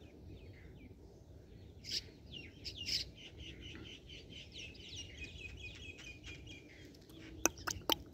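Birds chirping and trilling in a steady chorus of short calls, with a quick run of sharp clicks near the end.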